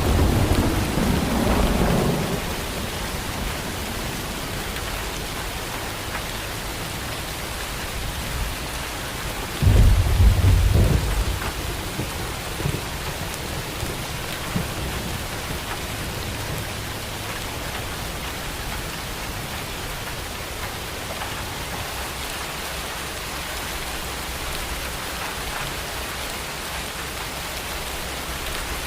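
Thunderstorm: steady rain hissing, with thunder. A rumble dies away in the first two seconds, and a second, sudden loud rumble comes about ten seconds in and rolls off over about two seconds.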